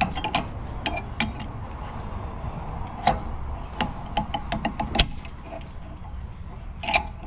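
Metal parts knocking and clinking as they are handled: scattered sharp clicks, some ringing briefly, over a low steady rumble.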